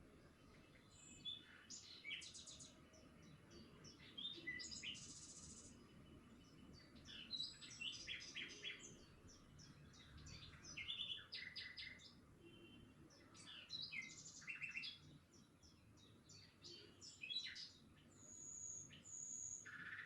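Faint birdsong: several birds chirping, with short calls and quick trills, and a couple of high whistled notes near the end.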